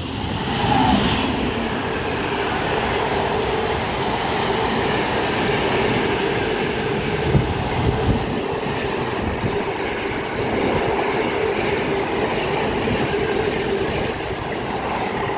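Freight train hauled by a Class 88 locomotive passing through at speed: a steady loud rush of wheels on rail with a constant humming tone, the hiss thinning a little about halfway through.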